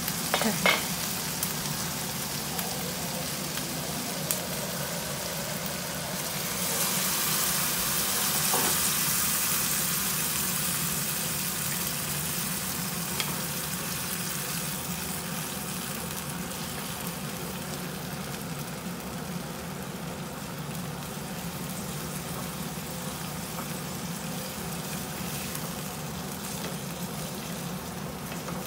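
Long beans, mushrooms and rice noodles sizzling in a wok on a gas burner as they are stir-fried with wooden spatulas. There is a light knock as the lid comes off at the start, and the sizzle swells about seven seconds in, then eases to a steady hiss.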